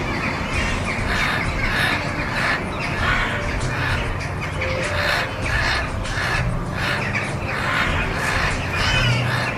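Crows cawing harshly and repeatedly, a rough call about twice a second, as in a fight between birds.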